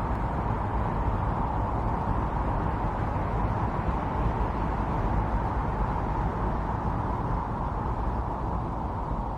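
Strong snowstorm wind blowing steadily: an even rushing noise with a low rumble underneath.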